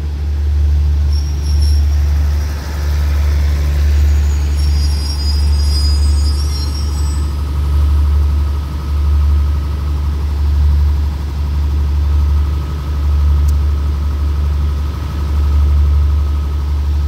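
Long passenger train easing to a stop at a platform: a heavy low rumble that swells and fades, thin high brake squeals about a second in and again around five to seven seconds in, then a steady whine from about six seconds in.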